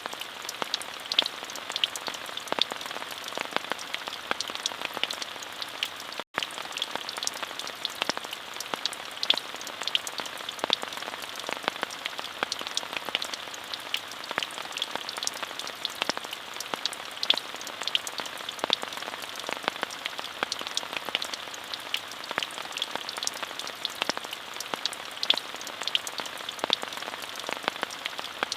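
Steady rain with many distinct drop ticks over an even hiss. The sound cuts out for an instant about six seconds in.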